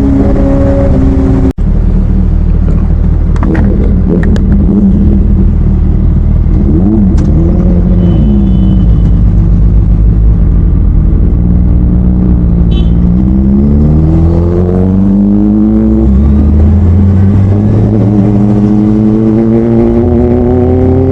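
Superbike engine under way, revving up and easing off several times with a brief break about a second and a half in, then a long steady climb in pitch as the bike accelerates through the last third.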